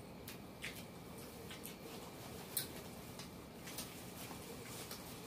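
Faint eating sounds: chewing and small wet mouth clicks, with a few scattered light ticks, over a low room hum.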